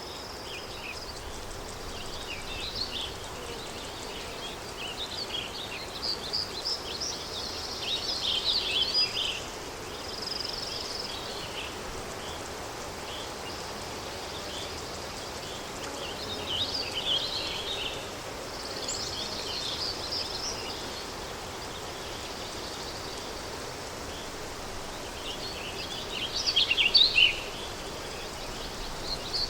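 Countryside ambience: a steady wind haze with small birds chirping and singing in scattered bursts, loudest about nine seconds in and near the end.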